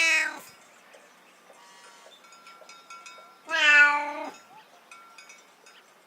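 Domestic cat meowing: one meow right at the start, then a longer, louder meow about three and a half seconds in.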